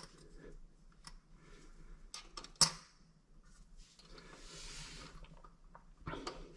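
Faint clicks and scraping of small bolt hardware being handled and fitted onto a toilet's bolts, with one sharp click about two and a half seconds in and a longer scrape around four to five seconds in.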